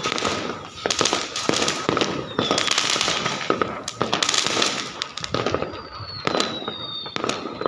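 Aerial fireworks going off in quick succession: repeated sharp bangs and crackling, with a few whistles gliding down in pitch.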